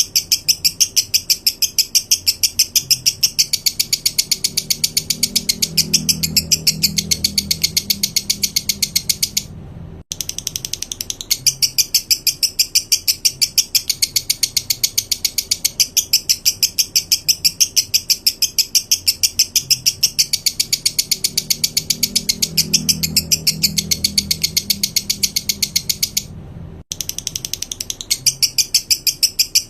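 A songbird's 'tembakan' call from a song-training (masteran) recording: a shrill, rapid, even stream of sharp high notes, like a rattle. It breaks off briefly about ten seconds in and again near the end, then starts again.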